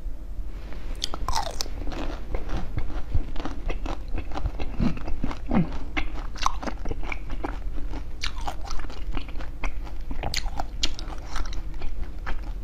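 Close-miked eating: a dense, uneven run of crisp crunching bites and chewing into a colourful jelly sweet on a skewer.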